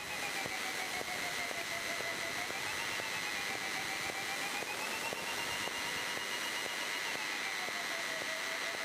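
Steady hiss inside a Cessna 152 cockpit, recorded through the intercom, with a faint whistle-like tone that slowly rises and falls in pitch; no engine is heard.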